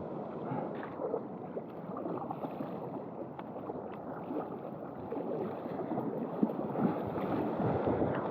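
Sea water rushing and splashing around a waveski in the surf, with short irregular splashes, growing louder over the second half.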